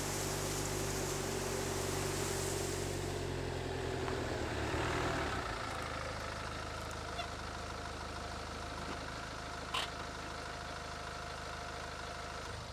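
Car engine running steadily, its note shifting between about three and six seconds in.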